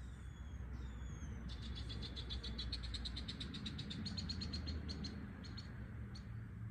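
A bird singing: a couple of high falling whistled notes, then about a second and a half in a fast trill of short notes that runs for a few seconds and thins out. A steady low rumble lies underneath.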